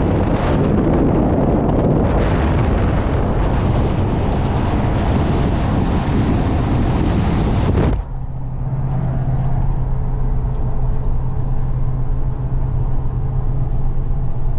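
Plow truck driving at highway speed. Heavy wind and road noise cuts off abruptly about halfway through, leaving a quieter, steady drone with a low hum.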